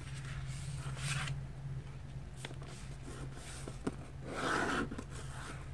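A sheet of printer paper being folded in half by hand and the crease pressed down: soft rustling and scraping, a couple of small ticks, and a longer scrape about four and a half seconds in, over a steady low hum.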